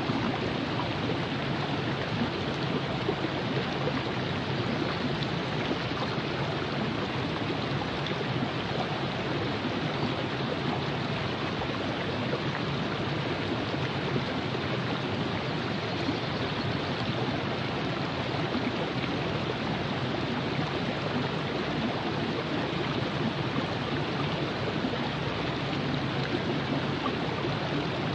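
Virgin River flowing over rocks: a steady, even rush of running water with no let-up.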